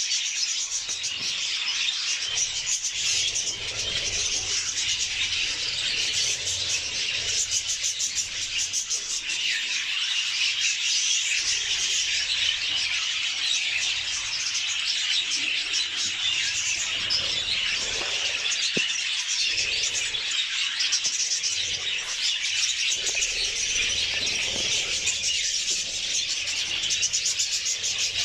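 Budgerigars chattering and warbling non-stop, a dense stream of rapid chirps and buzzy trills.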